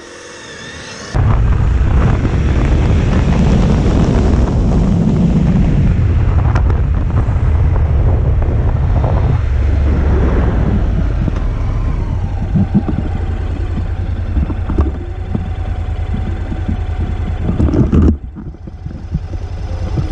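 Heavy wind buffeting on the microphone of a moving motorcycle, a loud low rumble over the vehicle's road noise. It comes in abruptly about a second in and drops away sharply near the end.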